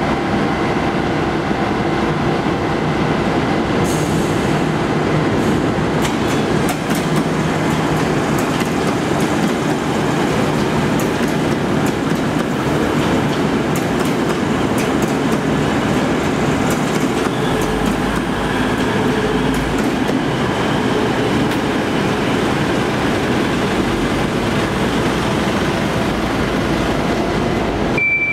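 A train moving through a railway station: steady wheel-on-rail running noise, with a run of sharp clicks about four to eight seconds in.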